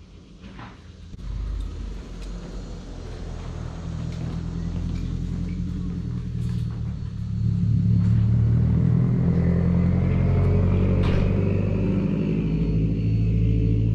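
Car engine running and picking up, growing louder over the first several seconds, then holding steady.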